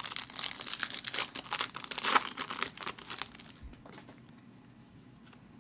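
Wrapper of a hockey card pack being torn open and crinkled in the hands: a dense run of crackling for about three and a half seconds, then fading to faint handling noise.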